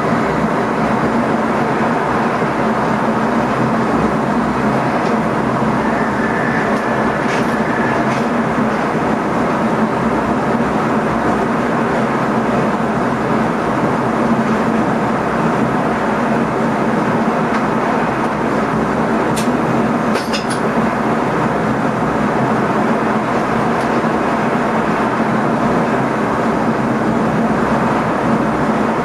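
NS ICM (Koploper) electric multiple unit running along the line, heard inside the driver's cab as a steady rumble and rush. A few brief clicks sound about seven seconds in and again about twenty seconds in.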